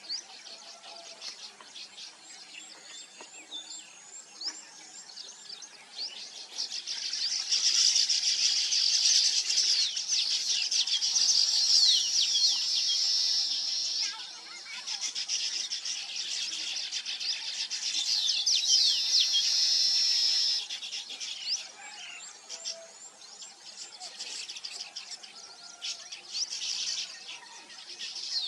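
A flock of small birds chirping and chattering together in a dense, overlapping chorus. It swells loudest after about seven seconds and again past the middle, dropping back in between and near the end.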